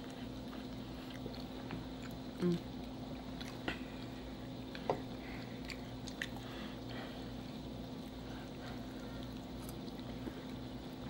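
Close-miked chewing of cubed steak in gravy and mashed potatoes: soft, wet mouth sounds with a few small clicks, over a steady low hum.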